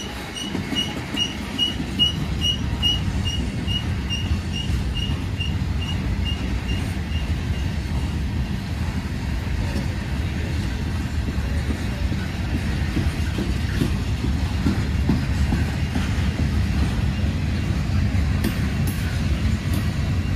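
Train rolling through the tight Horseshoe Curve: a steady low rumble of wheels on rail, with a high wheel squeal pulsing about two to three times a second for the first eight seconds or so.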